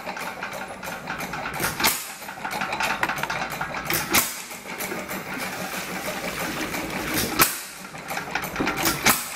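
Small 1 1/4 hp Monitor hit-and-miss engine running a pump jack and water pump: a fast steady mechanical clatter, with a sharp firing bang every two to three seconds, four in all.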